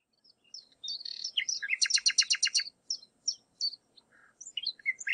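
Birdsong: scattered high chirps, with a fast run of about eight rapid notes around two seconds in.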